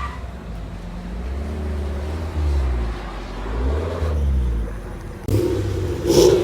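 Car engine revving, its pitch rising and falling twice, then cut off by a sudden louder, noisier rush about five seconds in.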